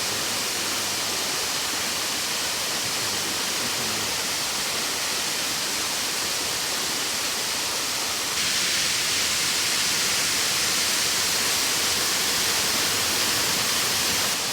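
Waterfall: a steady rush of falling water that jumps abruptly louder and brighter about eight seconds in.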